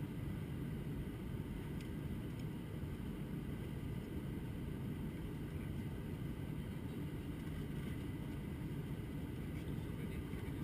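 Steady low rumble of cabin noise aboard an Airbus A321-200 airliner, holding at an even level.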